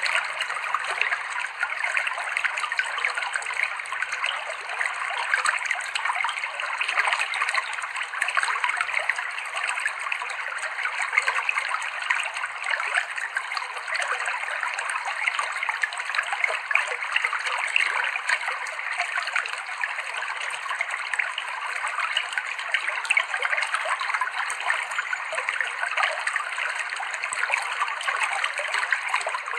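Clear river water flowing and trickling over rocks, a steady babble with many small splashes.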